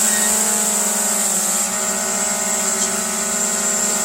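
DJI Mavic 2 Pro quadcopter's propellers whining steadily at close range, with a brief dip in pitch about a second in.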